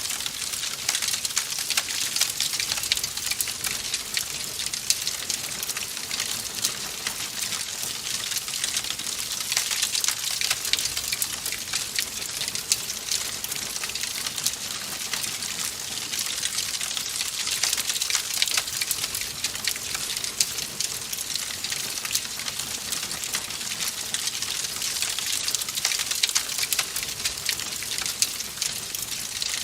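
Wood fire crackling in a fireplace: a steady hiss full of small crackles and snaps, with now and then a louder pop.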